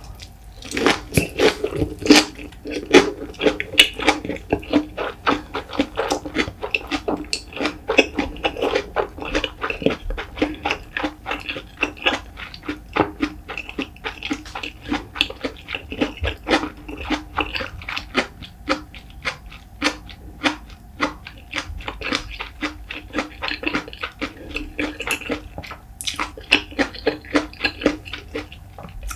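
Close-miked chewing of a mouthful of white rice with salted pollock roe (myeongranjeot): a dense, continuous run of small sticky mouth clicks and smacks.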